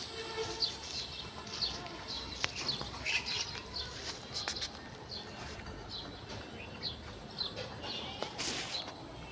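Birds chirping outdoors: a steady run of short, high chirps, two or three a second.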